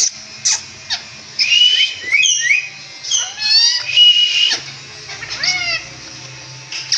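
Indian ringneck parakeet giving a run of short whistles and chirps, many sliding up or down in pitch, in quick clusters with brief pauses between.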